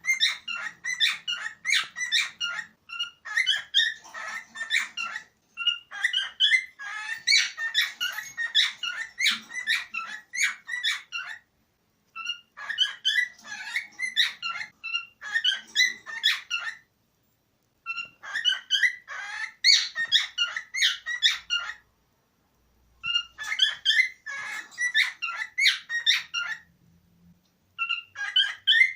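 Male cockatiel singing: bouts of rapid chirps and whistles a few seconds long, broken by short pauses.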